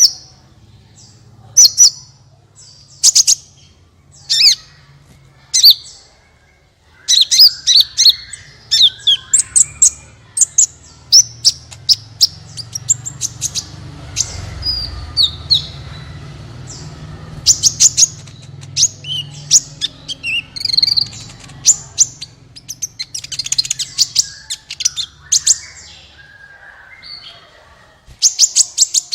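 Sunbird (the bird kept and called 'kolibri' in Indonesia) singing: sharp, very high chirps and fast twittering trills in quick bursts, with a faint low hum underneath.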